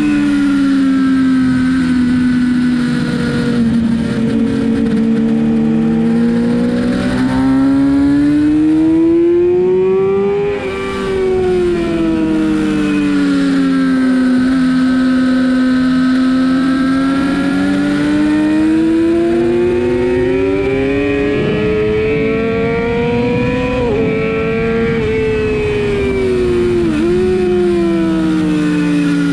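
Sportbike engine heard on board at track pace, its pitch rising and falling over several seconds at a time as the rider works the throttle through corners and straights. Near the middle it peaks and then falls away sharply, and late on it dips briefly, under a constant rush of noise.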